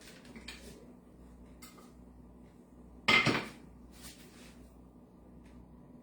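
Kitchen handling noise: a few faint clicks, then one loud clattering knock of kitchenware set down or struck on the counter about three seconds in, with a short ring after it.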